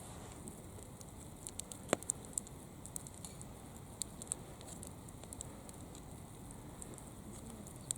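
Wood fire crackling, irregular sharp pops and ticks over a faint steady hiss, with a few louder pops about two seconds in.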